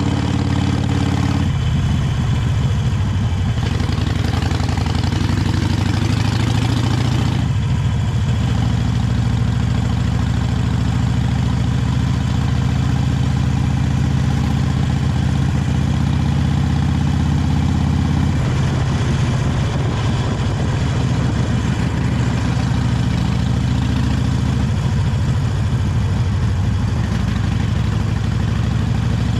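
Harley-Davidson 883 Iron's air-cooled V-twin running with its stock exhaust while the bike is ridden, its note shifting several times as the throttle changes. A rushing noise joins it for several seconds early on.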